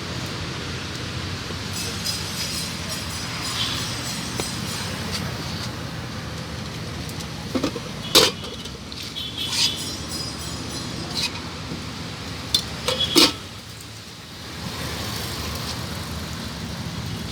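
Several sharp clinks of dishware and serving utensils, bunched from about eight to thirteen seconds in, over a steady low hum.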